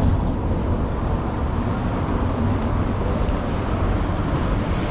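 Steady city street noise with a low rumble, much of it wind buffeting the microphone.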